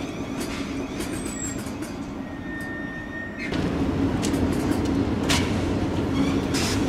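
Electric multiple-unit train moving through a station: a steady low rumble that steps up in loudness about three and a half seconds in, with a few sharp clacks after that.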